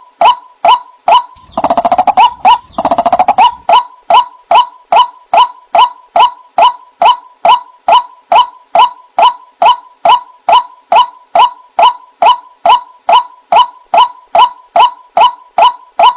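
White-breasted waterhen calling: a steady series of short, loud, falling 'kwak' notes, about two a second, broken about one and a half seconds in by two longer, harsh, croaking bursts before the regular notes resume.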